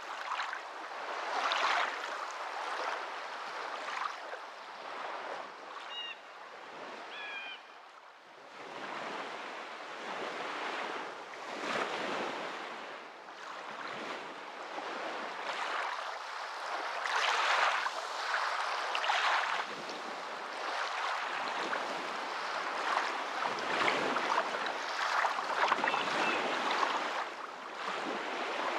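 Waves washing in steady surges, the water noise swelling and easing every few seconds. A few faint high chirps come through about six to seven seconds in.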